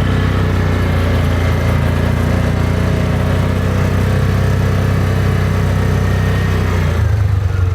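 An engine running steadily with a low, even hum, which changes slightly about seven seconds in.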